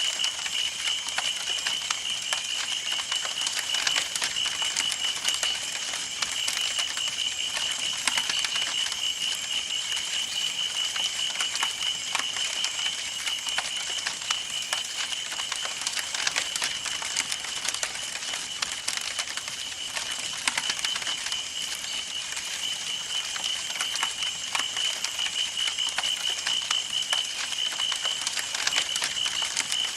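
Campfire burning with dense, irregular crackles and pops over a soft hiss, and a steady high-pitched pulsing tone beneath it.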